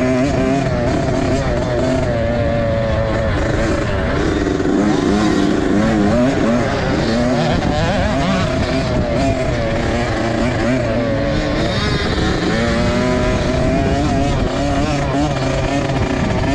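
Several dirt bike engines revving and falling back, overlapping, their pitches rising and dropping as the bikes go round a motocross track.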